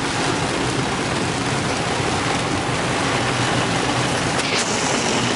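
Heavy downpour on a moving car, heard from inside the cabin: a steady hiss of rain on the roof and windshield mixed with tyre spray from the flooded road.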